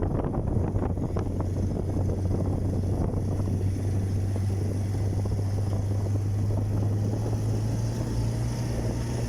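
An engine running steadily with a low hum, its pitch rising slightly near the end, with a few knocks and rattles in the first couple of seconds.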